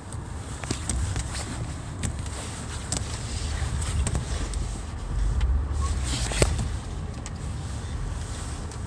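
Car engine running at low speed while the car is manoeuvred and backed up, a steady low rumble with scattered light clicks and knocks and one sharper knock about six and a half seconds in.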